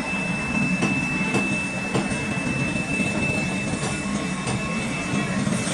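Workshop machinery running steadily, with a constant high whine over a low hum and a few faint clicks.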